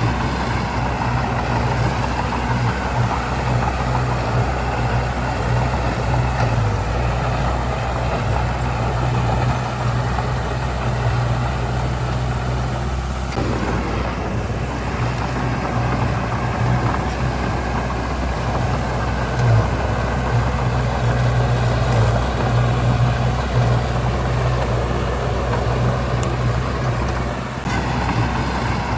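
Heavy diesel engine of earthmoving machinery running steadily, with a strong low drone; the sound shifts briefly about halfway through.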